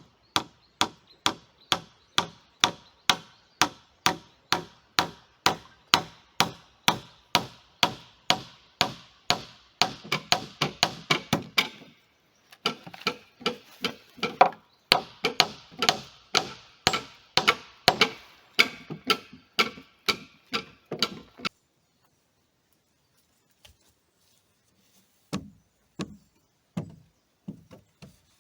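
The back of an axe hammering nails into wood in a steady run of sharp blows, about two a second. The blows quicken briefly, pause for a moment, then carry on and stop about two-thirds of the way through. A few lighter knocks follow near the end.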